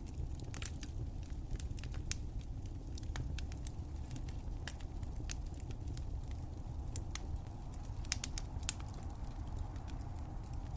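Wood fire crackling: irregular sharp pops and snaps a few times a second over a steady low rumble of burning.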